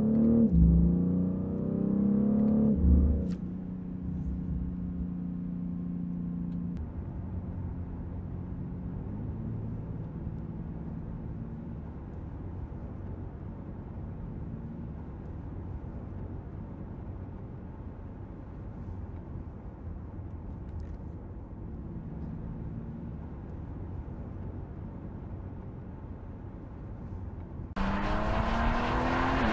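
BMW X4 M Competition's 3.0-litre twin-turbo inline-six with M sport exhaust, heard inside the cabin, revving up under hard acceleration for about three seconds, then dropping to a steady low drone while cruising. Near the end the sound jumps louder and the engine is heard from outside as the car accelerates along the road.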